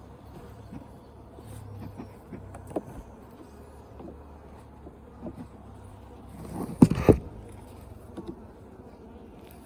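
Honey bees buzzing around an open hive, a steady low hum, with scattered light knocks and scrapes of hive equipment. Near the end comes a short, loud clatter of knocks.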